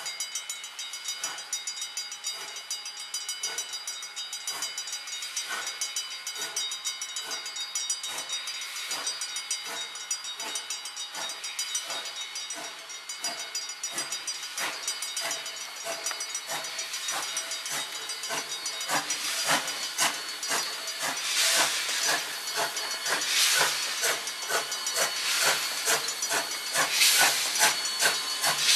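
Steam locomotive working, with rhythmic chuffs and hissing steam, getting louder in the last third as it draws near.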